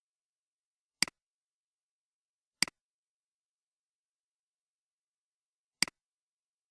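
Computer mouse clicking three times, about a second in, then a second and a half later, then three seconds after that. Each click is sharp with a softer second click right behind it, with dead silence between.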